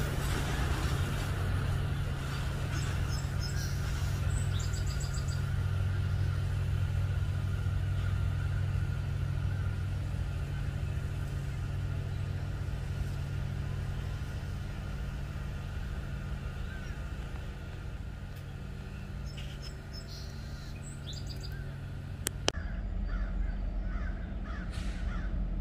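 Steady low rumble of a passing freight train, slowly easing off, with small birds chirping now and then. About 22 seconds in it breaks off with a click, and crows caw near the end.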